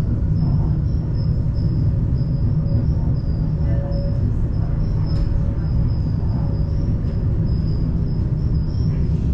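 Cremallera de Montserrat rack-railway train running, heard from inside the carriage: a steady low rumble with a faint high-pitched whine that comes and goes.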